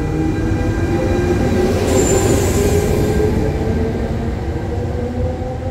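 A train running through a railway station: a heavy low rumble with a whine that slowly rises in pitch, and a brief high hiss about two seconds in.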